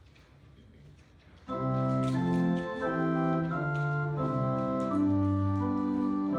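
Organ starts playing about a second and a half in, after a moment of quiet: held chords whose notes move every half second or so.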